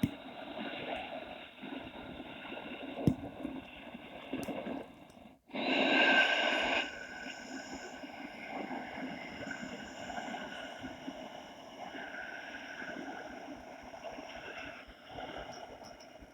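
A person breathing audibly through the nose, doing Taoist 'fire' abdominal breathing with the chest squeezed by crossed arms; one louder breath comes about six seconds in.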